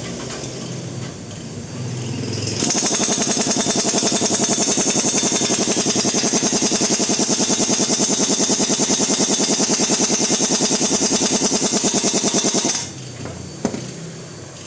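Pneumatic tool hammering in a fast, even rapid-fire rhythm with an air hiss, starting a few seconds in and running for about ten seconds before cutting off.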